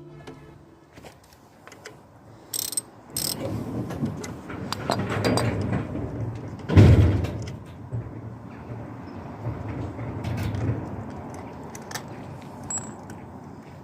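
Handling sounds of hand work on a motorcycle: scattered clicks, clinks and scrapes, with two sharp metallic clinks about three seconds in and one loud thump about seven seconds in.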